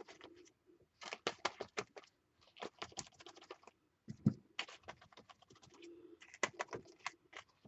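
A paint-loaded sponge dabbed over and over through a punchinella stencil onto a paper journal page: quick, irregular light taps in clusters, with short pauses between the runs.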